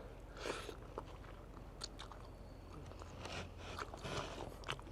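A person chewing and biting food, with scattered short crunchy clicks.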